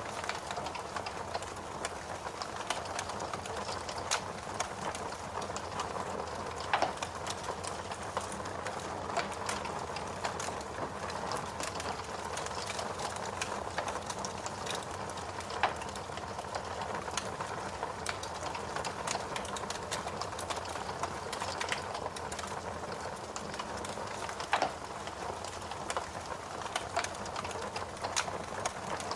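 Steady rain with a wood fire crackling over it: frequent sharp crackles and pops, a few of them louder.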